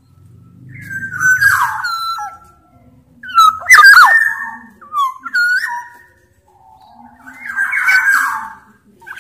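Black-naped oriole (kepodang) calling in three phrases of sliding whistled notes mixed with harsher, rougher sounds, each phrase a second or two long with short pauses between.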